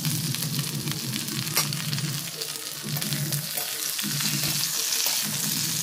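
Mixed vegetables and potato slices sizzling in hot mustard oil in a kadai while a metal spatula stirs them, with sharp clinks of the spatula against the pan.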